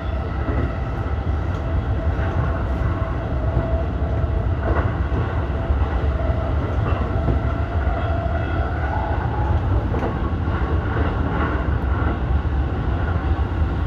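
E233-1000 series electric commuter train running between stations, with a steady low rumble of wheels on rail and the whine of the traction motors. The whine rises a little in pitch about two-thirds of the way through. A few faint knocks come from the wheels crossing rail joints.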